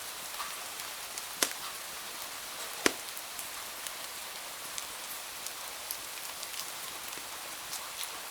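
Steady rain hiss with a crackling wood fire: scattered small crackles and two loud sharp pops, about a second and a half and three seconds in.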